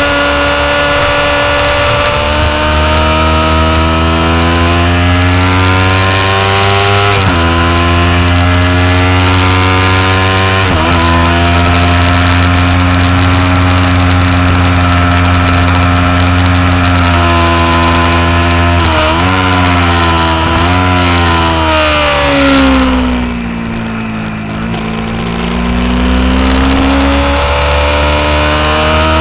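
Kawasaki Ninja 250R's parallel-twin engine at high revs on the track, climbing through the gears with two upshifts in the first half. About two-thirds in it downshifts with quick throttle blips, the revs sag briefly through a corner, then climb again near the end.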